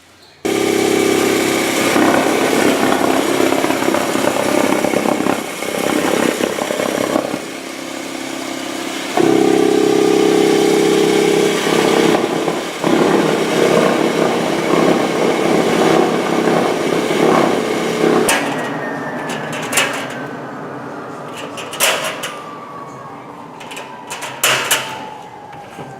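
Industrial trim extractor vacuum cleaner switched on and running loud and steady, its sound shifting in level several times as it draws in plastic trim. About 18 seconds in the motor is switched off and its whine falls steadily as it spins down, with a few sharp clicks near the end.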